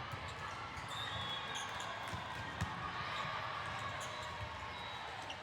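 Indoor volleyball play echoing in a large gym: balls thudding and sneakers squeaking over a steady hubbub of distant voices, with one sharp ball hit about two and a half seconds in.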